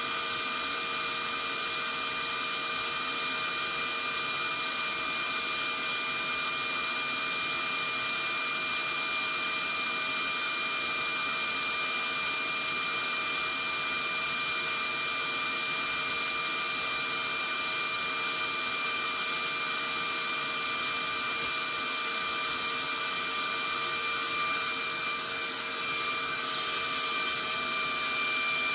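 Vacuum cleaner running steadily: an even rushing hiss with several steady motor whine tones over it, dipping slightly once near the end.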